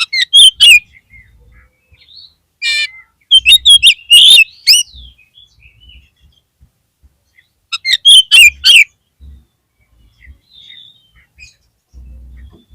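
Oriental magpie-robin (kacer) calling in three loud bursts of sharp chattering notes mixed with whistles: one at the start, one from about three to five seconds in, and one about eight seconds in, with quiet gaps between.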